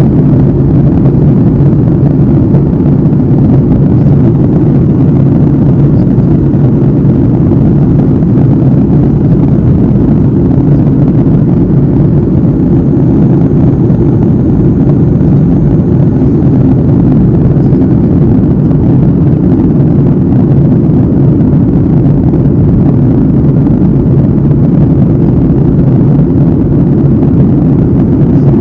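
Airliner cabin noise in flight, heard from a window seat: a loud, steady, low rush of engine and airflow with no change in level. A faint thin high whine comes in for a few seconds about halfway through.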